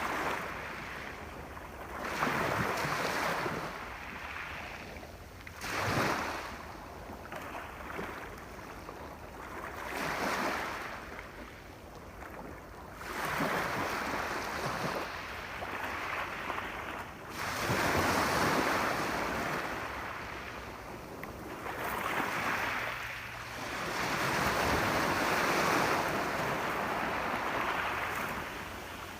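Sea waves breaking and washing up the shore in repeated surges, one every three to four seconds, each swelling and then fading.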